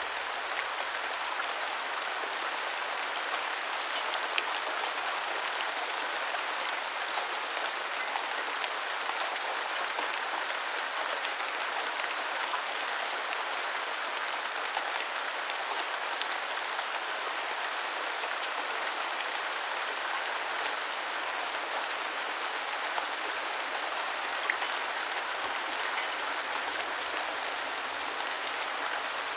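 Steady rain falling, a constant hiss with many small drops ticking on surfaces throughout.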